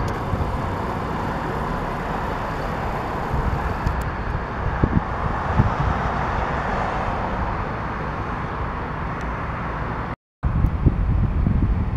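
London Midland multiple-unit passenger train running past at a steady level, with wind buffeting the microphone. It cuts off abruptly about ten seconds in, and after a brief silence only wind gusts are heard.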